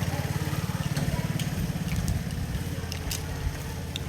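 A motor engine running with a fast, even low pulsing that fades after about two seconds, with a few light clicks over it.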